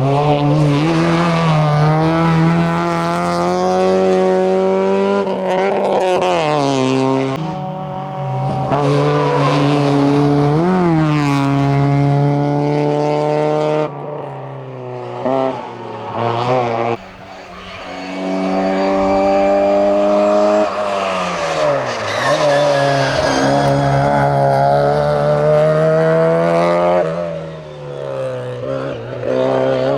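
Opel Tigra hillclimb race car accelerating flat out: its engine revs climb and fall back at each gear change. About halfway through, an Austin Mini race car takes over, its revs dropping sharply for a corner, then climbing again.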